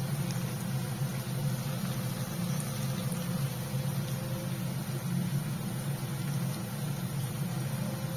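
A steady low mechanical hum runs throughout, with a few faint crackles from potato and pointed-gourd bhujiya frying in oil in a kadhai.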